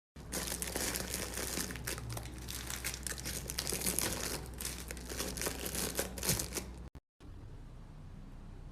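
Packaging being handled, crinkling and crackling with many small sharp crackles. It cuts off abruptly about seven seconds in, and a quieter steady hiss follows.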